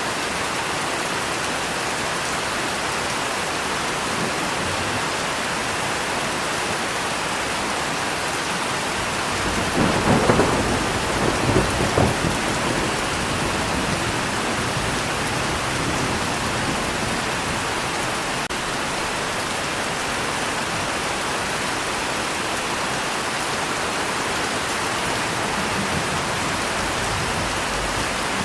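Steady, heavy rain, with a thunderclap crackling and rumbling for a few seconds about a third of the way in.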